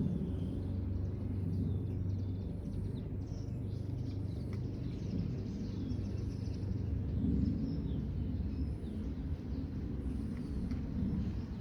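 Steady low outdoor rumble with faint, scattered bird chirps over it.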